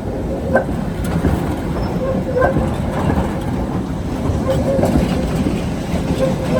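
Tatra tram running on the rails with a steady low rumble, its wheels knocking over rail joints a few times and giving short metallic squeals.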